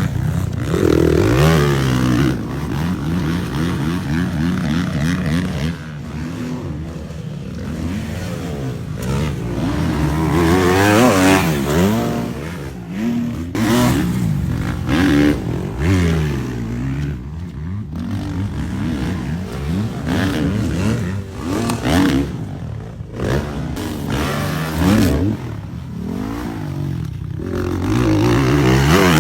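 Motocross bike engine revving hard and easing off over and over as it is ridden round a track. The pitch climbs through the gears and drops off the throttle.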